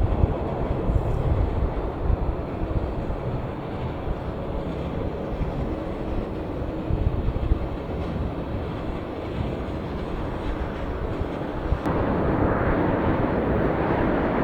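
Jet airliner engines rumbling, with low buffeting from wind on the microphone. About twelve seconds in the noise abruptly gets louder and brighter.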